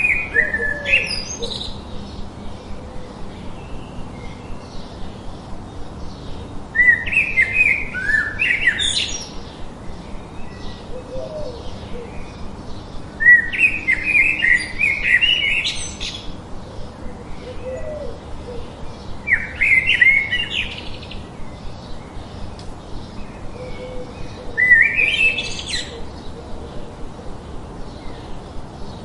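A songbird singing a short, fast, chirping phrase about every five to six seconds, over a faint, fast, even ticking rhythm.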